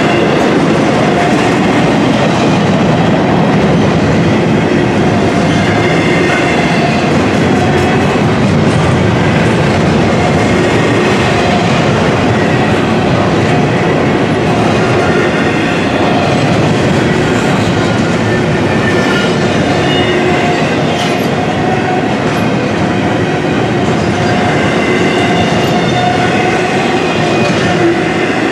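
Intermodal container freight cars rolling past: a steady loud rumble of steel wheels on rail, with clatter and a faint high wheel squeal.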